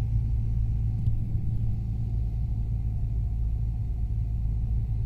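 Cessna 150's Continental O-200 four-cylinder engine and propeller droning steadily, heard from inside the cockpit, a low even rumble with no change in power.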